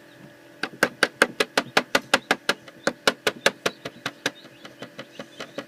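A hatching chick tapping against its eggshell from inside: a fast, even run of sharp taps about six a second, loud for about three and a half seconds, then fainter.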